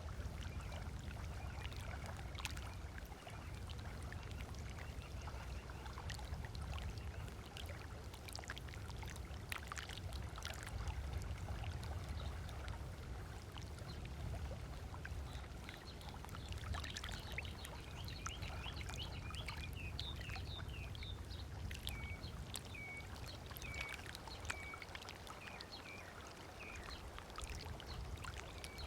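Small waves lapping and splashing on a lakeshore beach over a steady low rumble. About halfway through a bird starts calling, first a run of quick chirps, then short single notes repeated about once a second.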